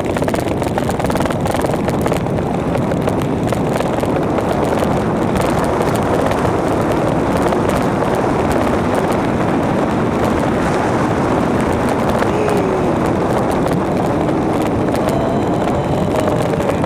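Wind rushing steadily over the microphone, with the rolling rumble of the ride, while the bike goes down a hill. A faint, short whine glides in pitch twice near the end.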